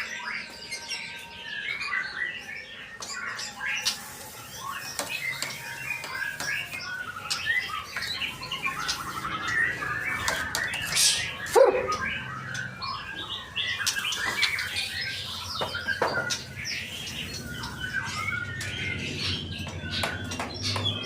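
Male white-rumped shama (murai batu) singing a busy, unbroken stream of chirps, whistles and harsh notes, with one louder swooping call about halfway through.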